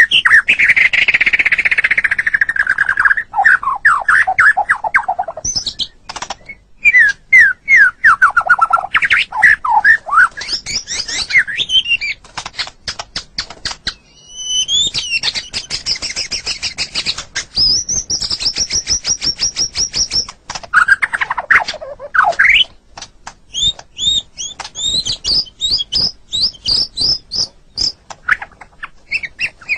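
White-rumped shama (murai batu) singing a long, varied song with hardly a pause. The song runs through quick series of falling notes, fast rattling stretches and high clear trills.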